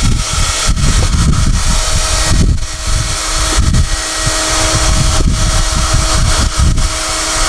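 SOUNATE high-airflow hair dryer running steadily with a constant whine, its airstream buffeting the microphone in uneven gusts.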